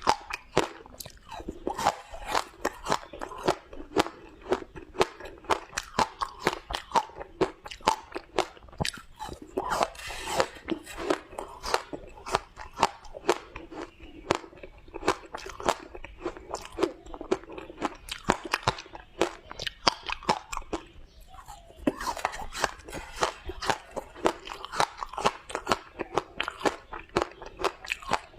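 Ice being bitten and chewed close to the microphone: a rapid, uneven run of sharp crunches, with a brief pause a little over 20 seconds in. The ice is frozen matcha ice with milk powder.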